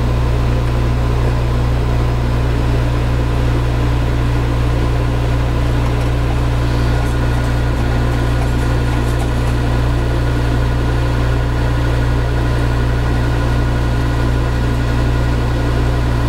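Metal lathe running steadily at about 600 rpm during a boring pass, a constant low hum with a few steady higher tones.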